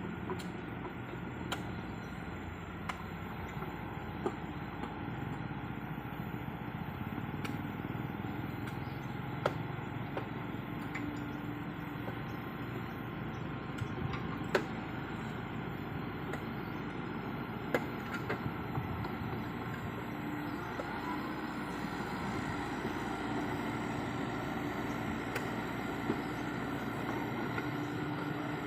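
A diesel excavator engine running steadily while the machine works, with a few short, sharp knocks scattered through it.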